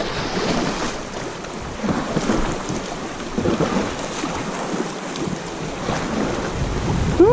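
Rushing, splashing whitewater of a river rapid as a kayak runs through it.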